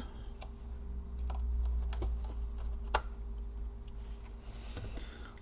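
Small screwdriver tightening screws in a laptop's display hinge area: scattered light clicks and ticks of metal and plastic, with one sharper click about three seconds in.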